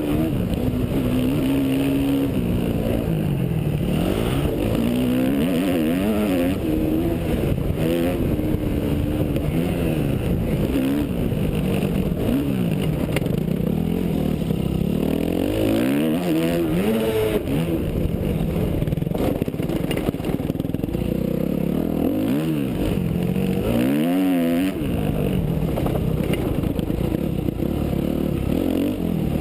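Yamaha YZ250F four-stroke single-cylinder motocross engine being ridden hard, revving up and dropping back over and over as the rider works the throttle and gears. The pitch climbs and falls every second or two.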